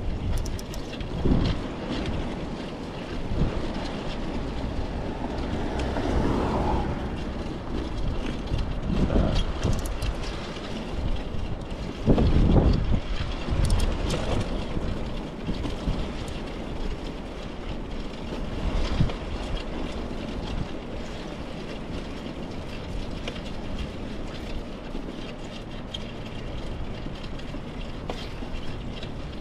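Steady road and wind rumble from a bicycle ride, with several brief louder swells. The loudest swell comes about twelve seconds in.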